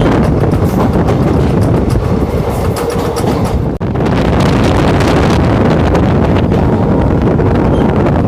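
Indian Railways express train running at speed, a steady rumble of wheels on the rails, with wind buffeting the microphone.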